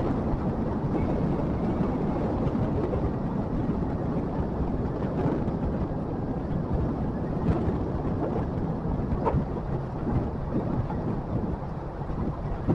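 Motorcycle riding noise: steady wind rumble on the microphone mixed with engine and road noise while underway.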